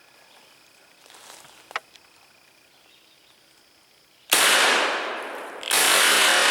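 Two loud gunshots about a second and a half apart, the first a little over four seconds in, each ringing out and fading over a second or more, fired at a squirrel in a tree. A faint sharp click comes about two seconds before them.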